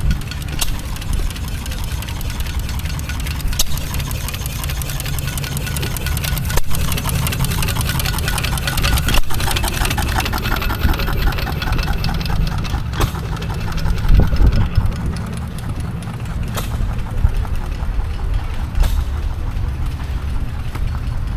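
Antique tractor engine running steadily at low speed, with an even firing beat.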